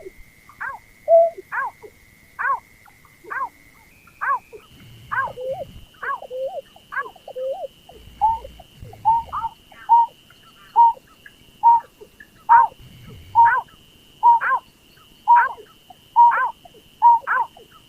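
Repeated calls of the berkik (pekung), a rice-field bird, played as a lure recording. Short falling notes come about once or twice a second. About halfway through they settle into steadier, evenly paced notes, and a thin, steady high tone runs underneath throughout.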